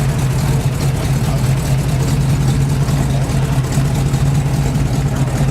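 Car engine running at a steady speed, a loud low hum that holds one pitch.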